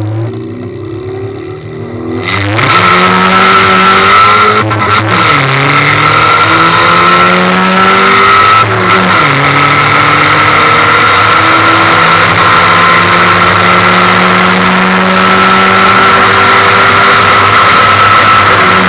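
Ford Fiesta 1.6 four-cylinder engine with a straight-through bonnet-exit exhaust, loud under hard acceleration: revs climb, drop back at two gear changes about five and nine seconds in, then climb slowly and steadily.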